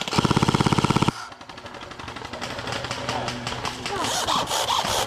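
Airsoft rifle firing a full-auto burst, a fast, even rattle of about 18 shots a second that stops about a second in. Fainter scattered shots and distant voices follow.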